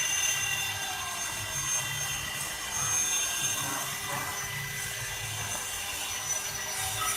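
CNC stone-carving machine running: a steady high whine over a rough grinding noise.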